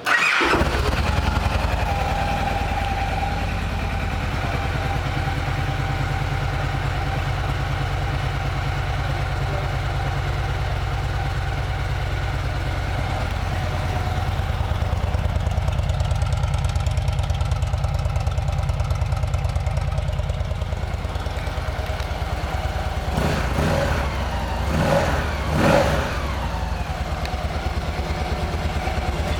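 2016 Victory Cross Country Tour's 106-cubic-inch V-twin with the Victory Performance exhaust starting up and idling steadily, revved a few times briefly near the end.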